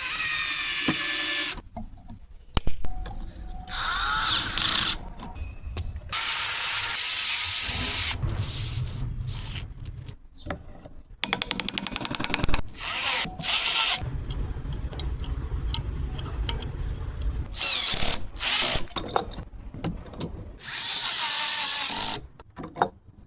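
Electric power tool working wood in short edited bursts: it whines up to speed several times, with stretches of low rumble under load and knocks and clicks of the wood being handled between runs.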